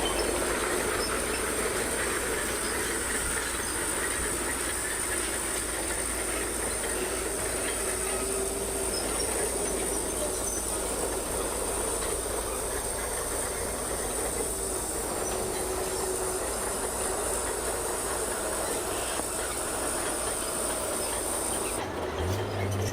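Crawler bulldozer at work: a steady mechanical din from its engine and steel tracks, with a high, steady whine.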